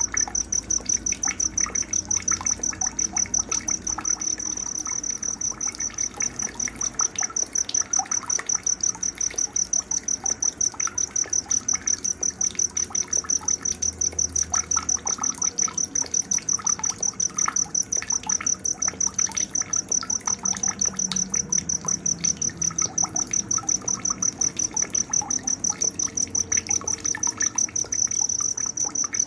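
Night nature ambience: a cricket chirping in a steady, rapid, even pulse, high-pitched and the loudest sound, with scattered small bird chirps beneath it.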